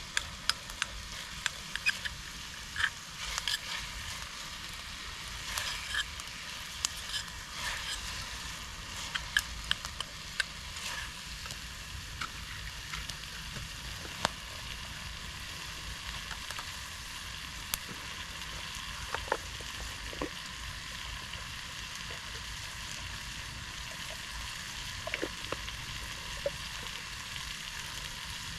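Food frying in a pan: a steady sizzle with scattered sharp pops and crackles, busiest in the first ten seconds or so.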